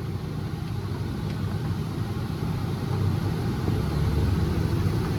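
Tractor engine running steadily under load, heard from inside the cab, growing gradually louder as the tractor speeds up on the foot throttle.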